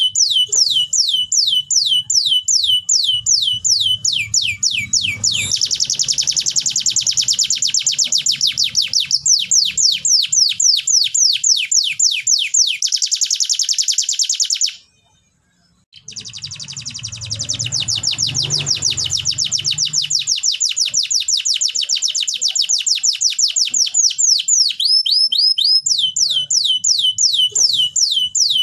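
Domestic canary singing: long rolls of rapidly repeated, downward-sweeping whistled notes that switch from one repeated note to another every few seconds. The song breaks off for about a second midway and then resumes.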